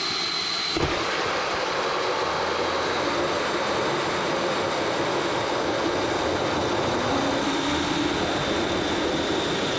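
An electric power tool running steadily, with a rasping noise and a faint high whine.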